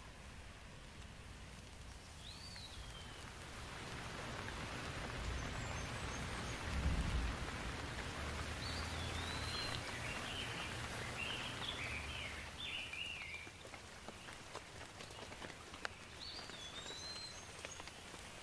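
Steady rain falling, swelling louder for several seconds in the middle and then easing, with a brief low rumble about a third of the way in. Short chirping bird calls come through the rain a few times.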